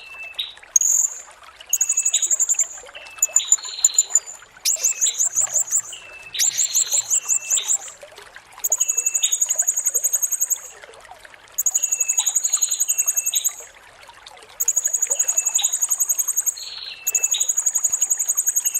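Blue-crowned hanging parrot (serindit) song: a series of very high, rapid, buzzy trills, each about one to two seconds long, repeated about eight times with short gaps. Short lower chirps fall between the trills.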